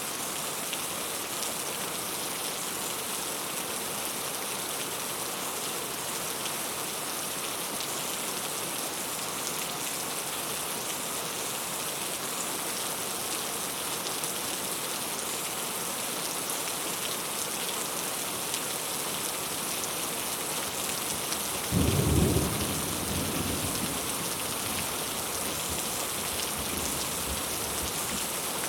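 Steady rain falling, an even hiss. About three quarters of the way through, a sudden clap of thunder breaks in, the loudest sound, and rumbles away over a few seconds.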